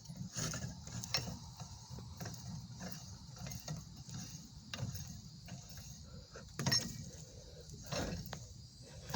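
Lug nuts being turned off a truck wheel's long studs with a lug wrench and set down: scattered metallic clicks and scrapes over a faint steady hiss.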